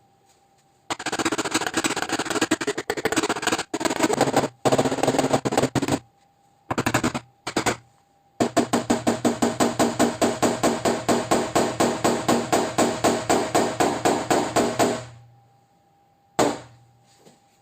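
Rapid mechanical hammering on sheet metal, about seven strikes a second, in three bursts with short pauses between them; the last and longest burst stops about three-quarters of the way through. This is typical of a powered tap-down hammer levelling a paintless-dent-repair area on a car tailgate.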